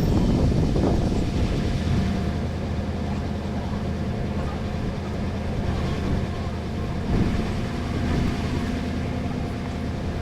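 A vehicle engine running steadily at a constant low hum, with a single knock about seven seconds in.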